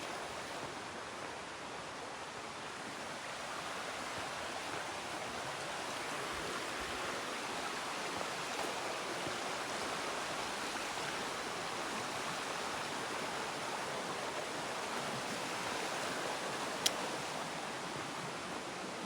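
Steady rush of water cascading down a mountain creek. One short click comes near the end.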